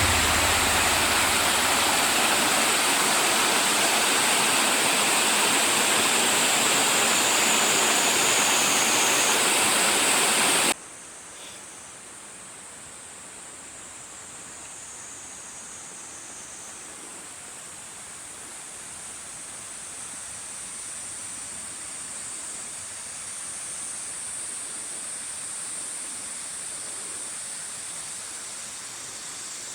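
Steady rush of running water, loud for about the first ten seconds, then cutting abruptly to a much fainter steady rush.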